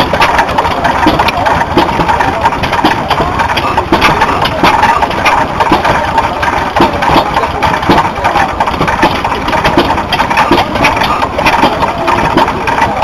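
Stationary engine running, with sharp knocks at an uneven rhythm.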